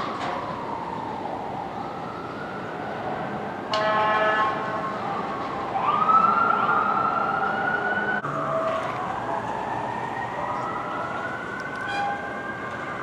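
Fire apparatus sirens wailing, rising and falling. An air horn blasts briefly about four seconds in, and a siren winds up sharply around six seconds in.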